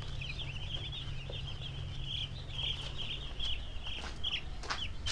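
Many two-day-old broiler chicks peeping without pause, a dense chorus of short high chirps. A couple of light knocks come near the end.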